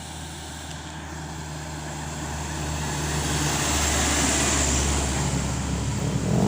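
A heavy truck approaching on the road, its engine hum and tyre noise swelling steadily louder as it nears.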